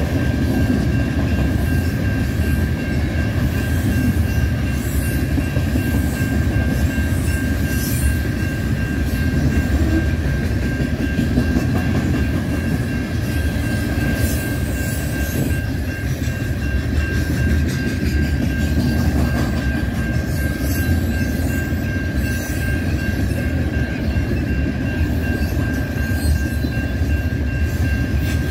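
CN freight train's cars rolling past on jointed track: a steady, dense rumble of wheels on rail, with a thin, steady high-pitched ring over it.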